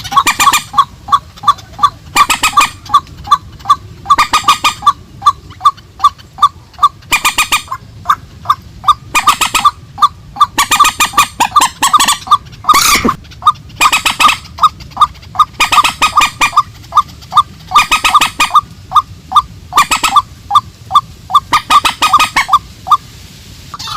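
Rails calling: a fast, even run of short notes, broken every second or so by loud harsh screeching calls.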